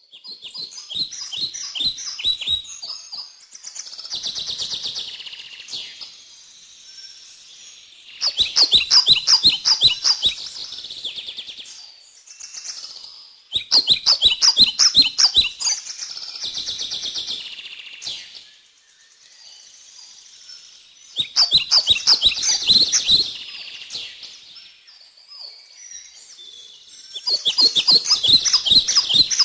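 A songbird singing the same song five times over, about every six to seven seconds. Each song is a fast run of high, sharp notes followed by a softer, buzzier trill.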